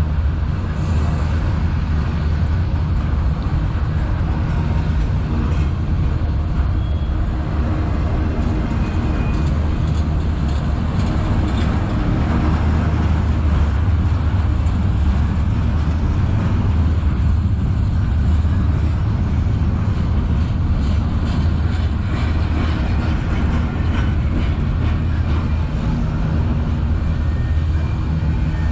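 Freight train rolling past, a steady heavy rumble with faint clicking of wheels over the rails.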